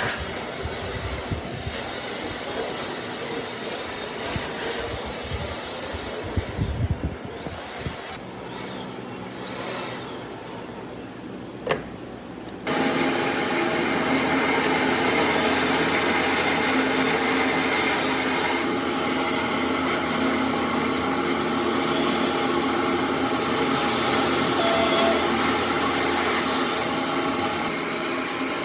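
Workshop handling noise with a few knocks, then about halfway an electric power tool starts abruptly and runs steadily with a motor hum.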